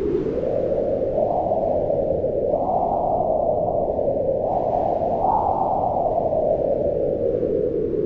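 Howling wind, a steady rush whose pitch rises and falls in slow swells.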